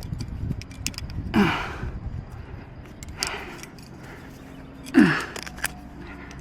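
A rock climber breathing hard with effort: three voiced exhales, each falling in pitch, about two seconds apart. Light clicks, typical of climbing gear, sound between them.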